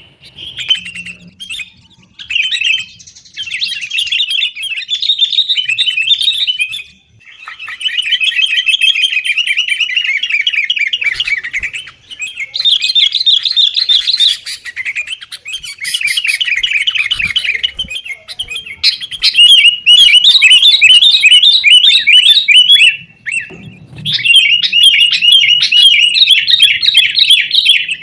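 Sooty-headed bulbul (kutilang) singing in a busy, chattering run of rapid notes, phrase after phrase with only short breaks. This is the 'gacor' lure song used to prompt a kept bulbul into singing.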